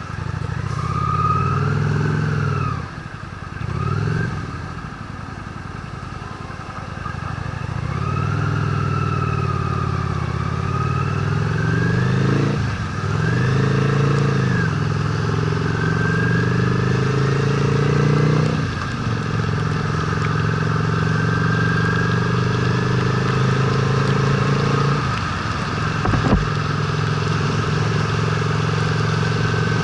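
Honda Steed V-twin motorcycle engine running on the move, its revs dropping and climbing again several times as it shifts and accelerates. There is a single sharp click about 26 seconds in.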